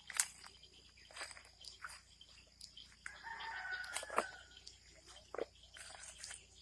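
A single drawn-out bird call of about a second, beginning about three seconds in, over scattered clicks and rustles.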